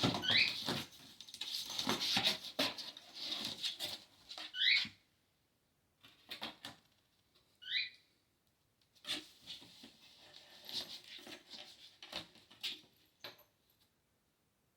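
Kittens playing: small paws and claws pattering and scrabbling in quick bursts with short pauses. Three brief high squeaks rising in pitch come near the start, about four and a half seconds in, and about eight seconds in.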